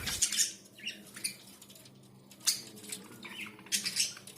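Pet budgerigar making faint, scattered high chirps and small clicks, with one sharper click about two and a half seconds in.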